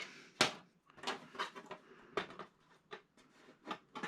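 Scattered light clicks and knocks of plastic and metal TV parts being handled, with the sharpest knock about half a second in.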